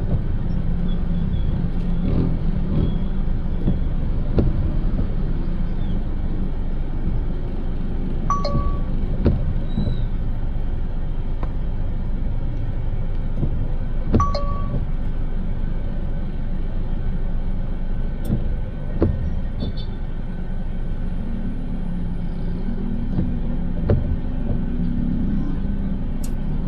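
Steady low road rumble of a car being driven, heard from inside, with occasional short clicks and knocks.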